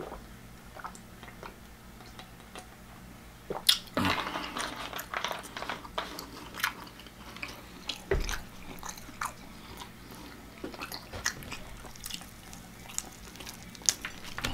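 Close-up mouth sounds of a person chewing food, irregular crunches and wet clicks that start about four seconds in after a faint start. A dull thump comes about eight seconds in.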